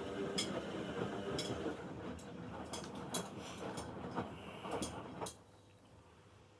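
Bauknecht WA Aquaton 1400 washing machine tumbling its drum in the wash cycle: a steady motor hum with a run of sharp clicks and knocks. It stops about five seconds in, the pause between drum turns.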